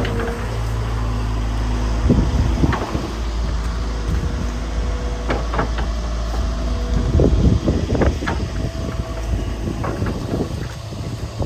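Volvo EW140D wheeled excavator's diesel engine running steadily, with a few scattered knocks and clatter from the machine about two, five and seven to eight seconds in.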